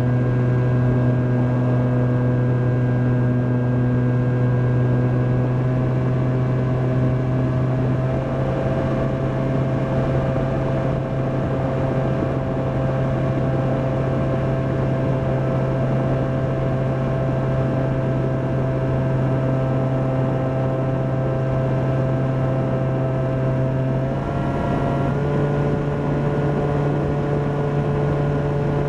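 Volantex Ranger EX RC plane's electric motor and propeller heard from the onboard camera in flight: a steady drone that steps slightly in pitch about a third of the way in and again near the end, as the throttle changes.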